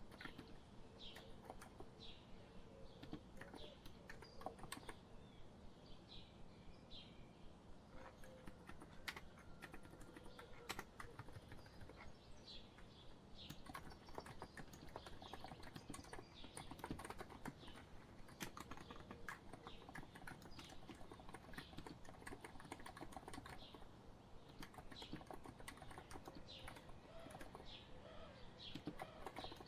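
Continuous typing on a COX Empress electrostatic capacitive keyboard, quiet keystrokes clicking in quick succession, with birds chirping now and then in the background.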